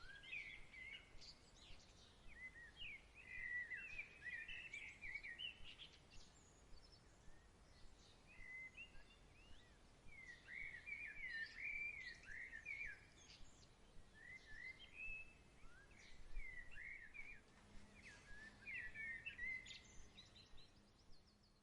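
Birds singing faintly in short, quick chirping phrases, one phrase after another, over a soft steady background hiss.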